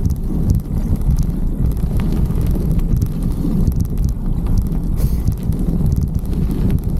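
Steady wind rumble buffeting the microphone of a bike-mounted 360 camera while riding a bicycle.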